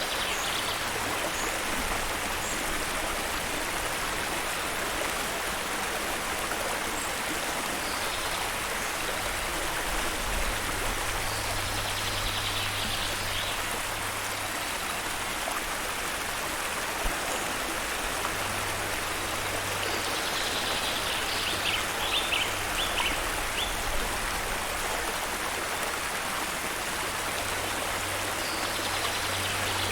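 Steady rush of running water from a waterfall-fed stream, an even hiss with no letup. A few brief high trills sound over it, about ten seconds apart.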